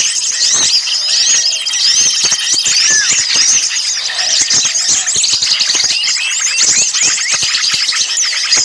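Many small songbirds calling all at once: a dense, unbroken chatter of quick high chirps, slurred whistles and trills overlapping one another. It is a mixed bird-lure recording of agitated small birds, used to draw birds in.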